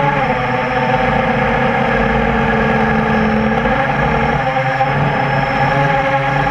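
Quadcopter's brushless motors (Tiger Motor MT-2212 1100kv, 8x5 props) buzzing in flight, several whining tones at once. Their pitch drops just after the start, then wavers up and down as the throttle changes.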